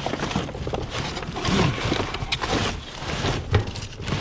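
Rummaging through trash in a dumpster: rustling and irregular knocks and clatters of plastic items being shifted.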